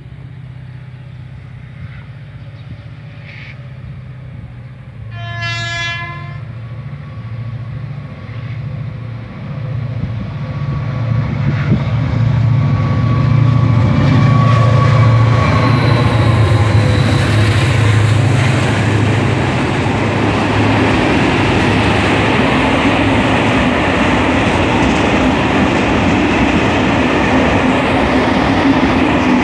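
Renfe class 335 diesel-electric freight locomotive approaching and passing. It gives one horn blast of about a second, about six seconds in. Its diesel engine's low drone then builds and is loudest as the locomotive goes by. After that comes the steady rumble and wheel clatter of a long string of hopper wagons rolling past.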